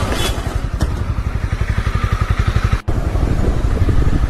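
A motorcycle engine running with an even, rapid low beat, broken by a momentary gap about three seconds in.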